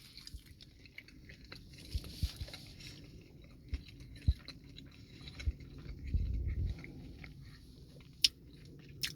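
Close-up chewing of a bite of fried chicken sandwich, with soft wet mouth sounds and small scattered clicks and crunches.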